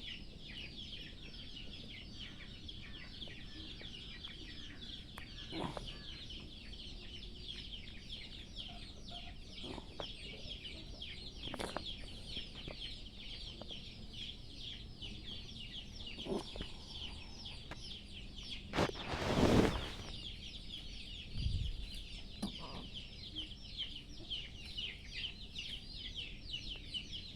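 Young birds chirping: a dense, unbroken stream of rapid high-pitched peeps, with a few soft knocks and a brief louder rustle about two-thirds of the way through.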